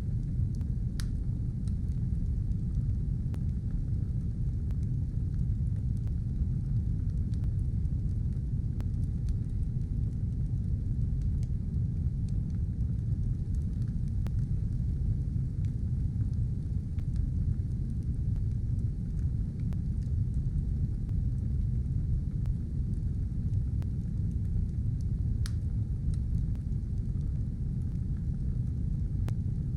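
Stove fire burning: a steady low rumble of flames with occasional sharp crackles and pops.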